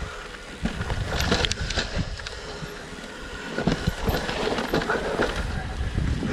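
Mountain bike going down a steep, rough dirt trail: tyres rumbling over the ground, with irregular clattering and knocks from the bike as it bumps over roots and ruts.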